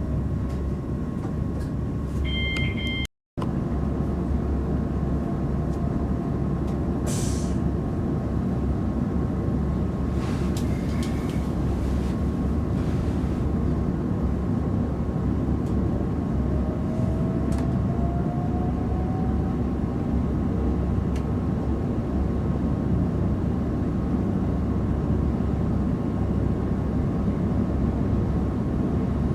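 Interior running noise of a Class 387/1 Electrostar electric multiple unit at speed: a steady rumble of wheels on track. About halfway through, a faint whine rises in pitch.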